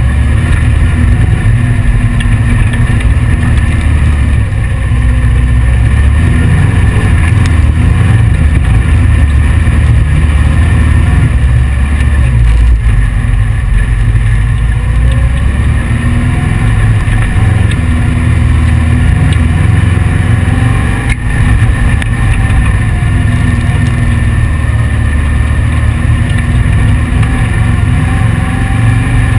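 Air-cooled 1835 cc VW flat-four engine of a heavy dune buggy running under load over sand. Its pitch rises and falls as the throttle changes.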